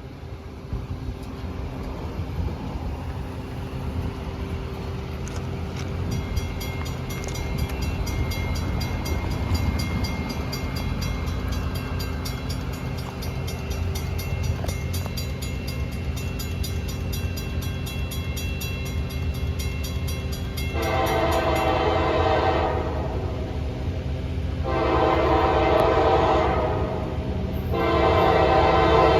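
Diesel freight locomotive approaching with a steady low engine rumble, a rapid regular high ringing joining about six seconds in. Near the end its air horn sounds three long blasts, the last one still going.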